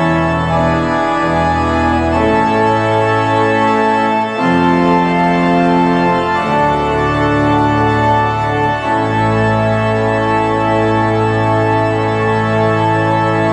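Organ playing slow sustained chords over held bass notes, closing on a long held chord.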